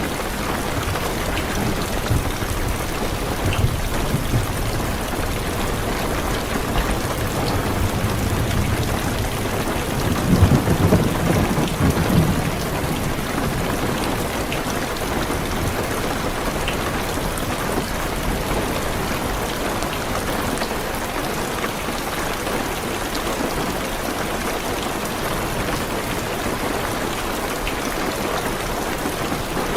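Heavy rain drumming steadily on a car's roof and windows, with a low roll of thunder that swells and fades about a third of the way through.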